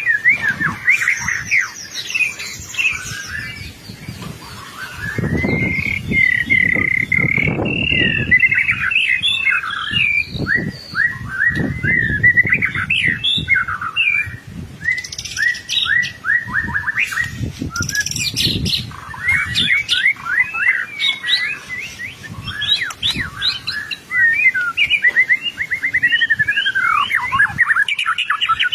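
White-rumped shama singing continuously in full song: a fast, varied run of loud whistles, trills and rapid repeated notes, with low rumbling noises underneath about five to nine seconds in and again a few times later.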